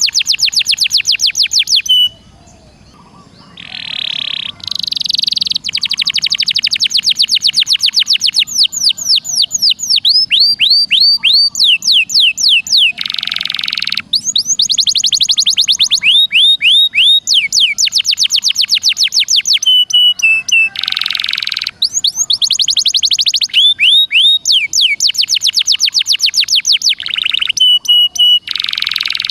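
Recorded songbird song: fast trills of sharply falling whistled notes, several a second, broken now and then by a short harsh buzzy note. The phrases start and stop abruptly, as in an edited loop for tutoring caged songbirds.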